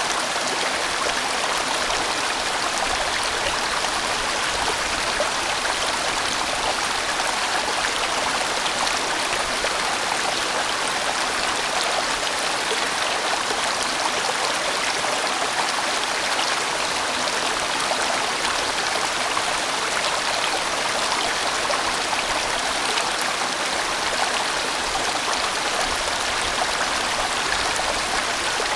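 A large valley stream flowing steadily: an even, unbroken rush of water.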